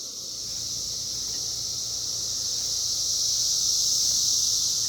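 Chorus of periodical cicadas: a steady, high, dense buzzing drone that swells slowly, loudest about four seconds in.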